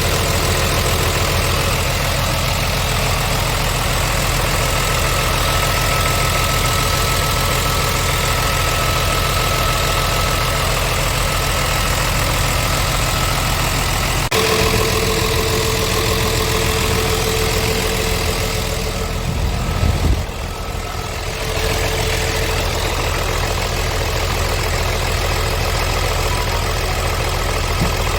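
Scania R tractor unit's diesel engine idling steadily. A sharp click about halfway through, and a brief swell then a short drop in level about two-thirds of the way in.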